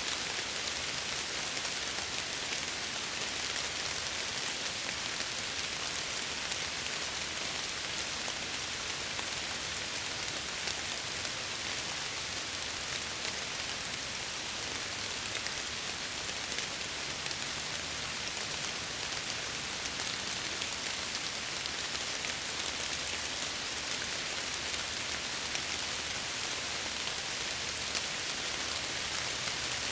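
Steady rain pattering against window glass, an even hiss with fine scattered drop ticks.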